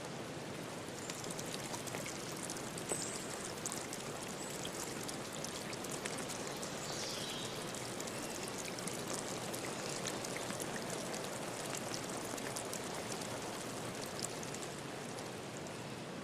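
River stream rushing steadily over rocks, with many small splashes in it. A few faint high bird calls sound over the water, one of them a falling note about seven seconds in.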